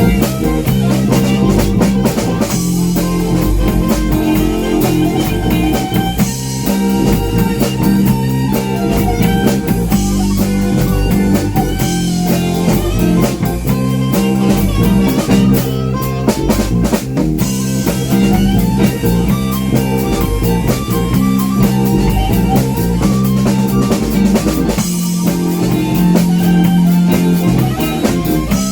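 Blues band playing an instrumental break: electric guitar picking a lead over a steady bass line and drum kit.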